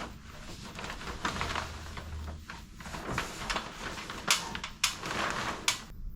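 Scraping and rustling of hand work, with three sharp knocks in the last two seconds, cut off abruptly near the end.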